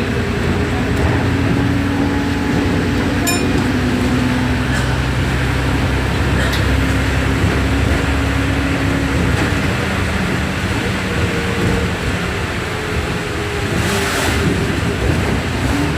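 Alexander Dennis Enviro400 double-decker bus on the move, its diesel engine and drivetrain running with a whine that steps up and down in pitch as it changes speed. There is a short high click about three seconds in and a brief hiss near the end.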